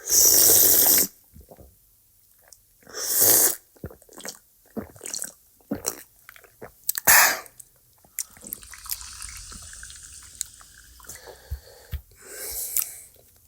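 Drinking a cold, fizzy Coke: several loud bursts of hiss, small clicks and swallowing sounds, with a steady fizzing hiss in the middle stretch.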